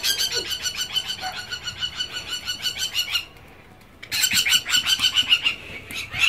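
A bird dive-bombing a small child gives rapid, shrill, repeated alarm calls, about eight notes a second. There are two long runs with a short pause between them and a few more notes near the end.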